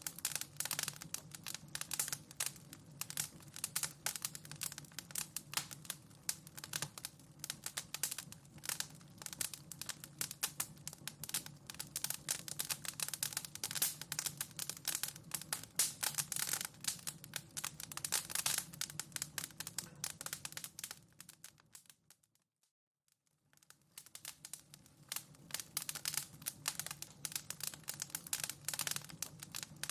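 Wood fire crackling in a fireplace, a dense run of irregular snaps and pops. About three-quarters of the way through it fades out to silence for about a second, then fades back in, where the recording loops.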